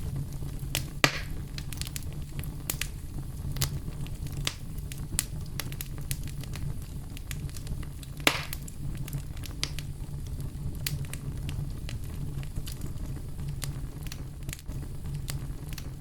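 Campfire crackling: a steady low rumble of burning under frequent irregular snaps and pops, with two louder pops, one about a second in and one about eight seconds in.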